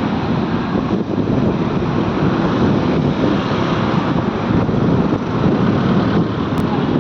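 Speedboat engine running steadily under a dense rushing noise.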